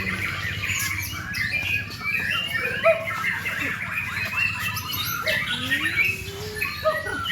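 White-rumped shama (murai batu) singing a rapid, unbroken run of varied chirps and whistles.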